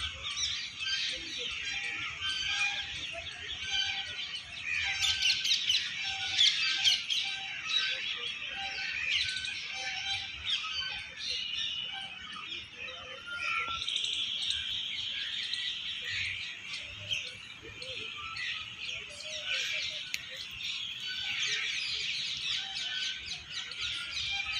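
A chorus of many small birds chirping and calling at once: a dense, continuous mix of short, high chirps and twitters.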